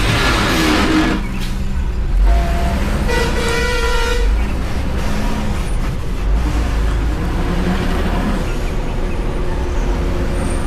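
Heavy road vehicles (trucks and buses) running with a steady low engine rumble, and a loud burst that fades in the first second. A vehicle horn sounds for about a second roughly three seconds in.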